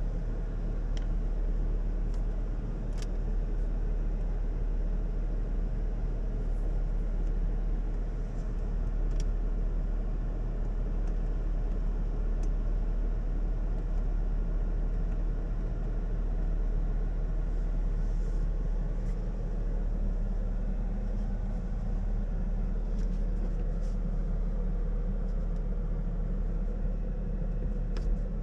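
A car engine idling: a steady low rumble, with a few faint clicks over it.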